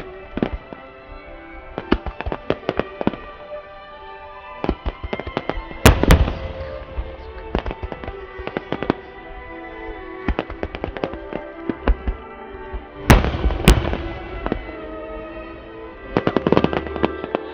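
Rapid volleys of firework shells bursting in a starmine barrage, with the heaviest booms about six seconds in and again around thirteen seconds. Music plays over the venue's loudspeakers underneath.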